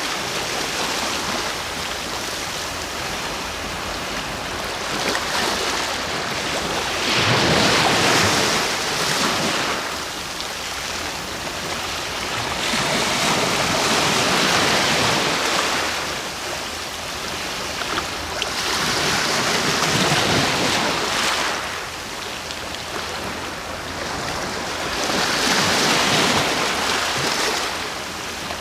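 Ocean waves breaking on the shore: a rush of surf swells up and falls back about every six seconds, in a slow, even rhythm.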